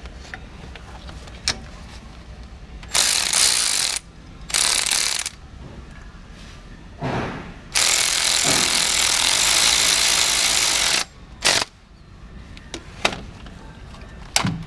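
Ratchet wrench run in several bursts to tighten the bolt of a camshaft position sensor clamp on the engine block: two short runs, a longer run of about three seconds, then a brief one, with scattered clicks and taps between.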